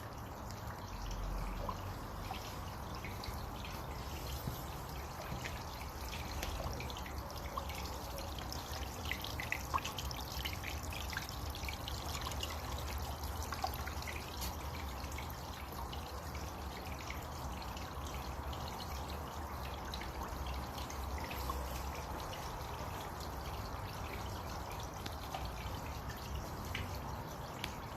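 A small waterfall: water falling and splashing steadily, with many small drips and splashes over a continuous trickling rush.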